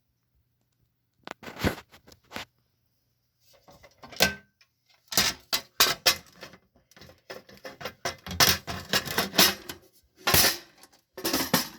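Metallic clicks and clatter from handling a steel electrical sub-panel and its fittings: a few sharp knocks at first, then a busy run of rattling and clicking from about five seconds in.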